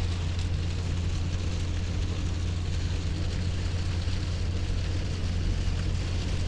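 Inside a pickup truck's cab while driving: a steady low engine and road rumble under the even hiss of hard rain hitting the windshield and roof.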